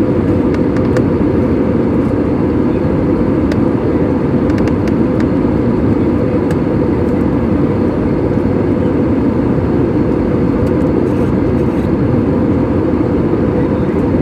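Steady, loud airliner cabin noise: the jet engines and rushing air heard from inside the passenger cabin in flight.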